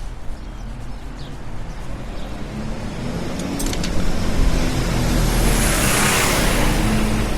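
A car passing on the street, its tyre and engine noise swelling over a few seconds to its loudest near the end, over a steady traffic rumble.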